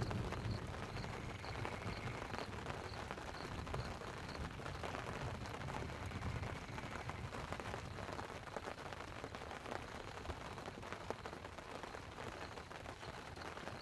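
Light rain pattering on a tent, steady and even with many small drop ticks, over a low continuous rush of river water.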